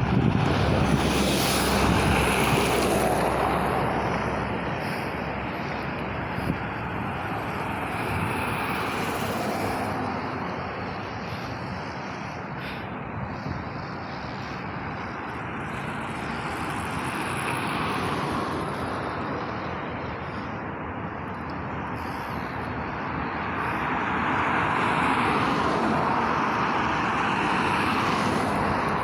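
Road traffic with trucks driving past, the noise of engines and tyres swelling and fading as each passes, several times.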